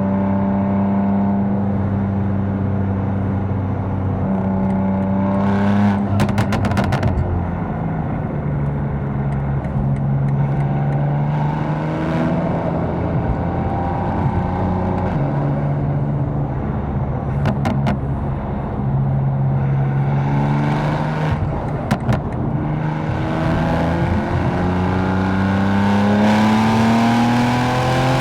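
Tuned twin-turbo inline-six engine of a 750 hp BMW M4 accelerating and shifting gears: its note climbs, drops at each of several upshifts, then climbs steadily near the end. Short bursts of sharp crackles come around some of the shifts.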